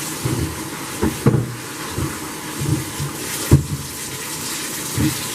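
Hot water running from a bathtub tap into a carpet cleaner's clean-water tank, a steady rush of the tank filling, with a few short knocks about a second in and again later.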